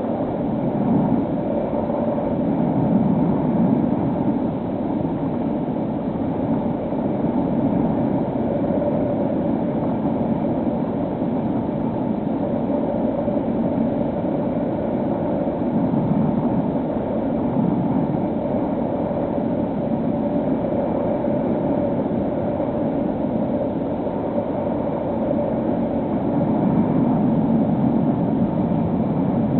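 Steady drone of a HobbyKing SkyEye FPV plane's electric motor and propeller in flight, mixed with wind rush. A faint hum wavers a little in pitch, and the whole sound is dull and muffled.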